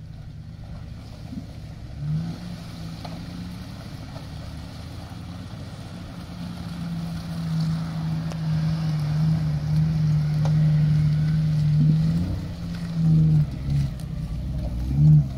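Off-road 4x4 engine running, a low steady drone that grows louder through the middle, then several short revs near the end.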